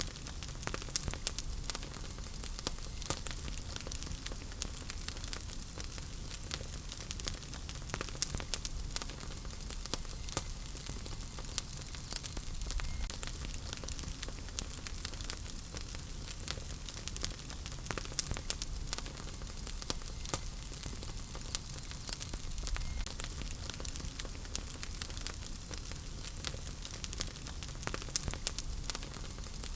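Wood fire burning in a fireplace: a steady low rumble and hiss with frequent irregular crackles and pops from the burning logs.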